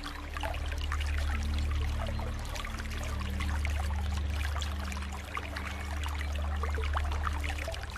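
Aquarium water trickling and bubbling over a low steady hum.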